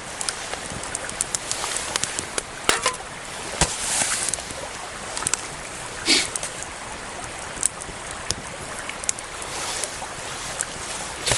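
Wood campfire crackling, with irregular sharp pops scattered throughout, over a steady rush of flowing water.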